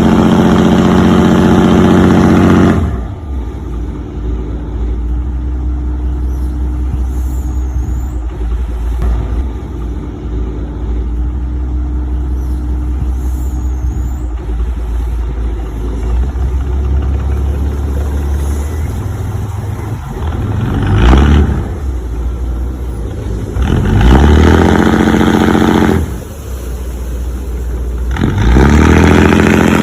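Remote-control model heavy equipment running, with engine-like sound: a steady low hum between loud revving bursts, one at the start and three more in the last third, the last rising in pitch.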